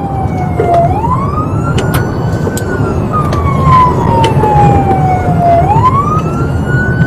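Emergency siren on a Border Patrol pursuit vehicle wailing, rising quickly and then falling slowly about once every five seconds. Underneath is the steady low rumble of the vehicle driving.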